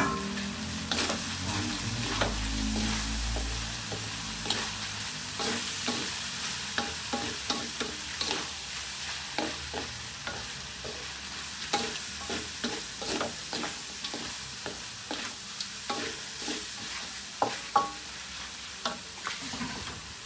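Diced pork sizzling as it fries in a steel wok, stirred with a spatula that clicks and scrapes against the pan many times.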